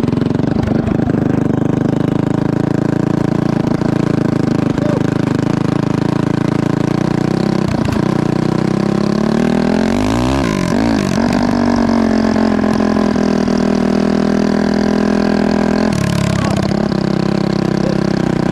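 Honda CRF450 single-cylinder four-stroke engine running loud and steady under throttle in a go-kart. About ten seconds in, the revs drop and climb back.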